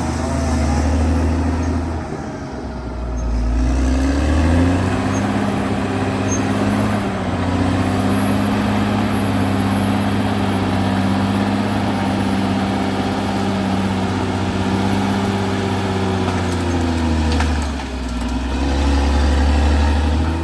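Caterpillar D6R XL bulldozer's diesel engine running. Its pitch drops and climbs back as the revs change, about two seconds in and again near the end, and holds steady in between.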